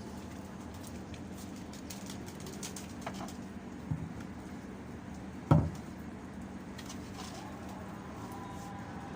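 Domestic pigeons cooing over a steady low hum, with a small knock and then, about halfway through, one loud short thump.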